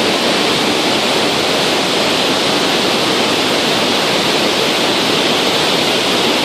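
Iguazu Falls: a great mass of falling water making a loud, steady rush of noise.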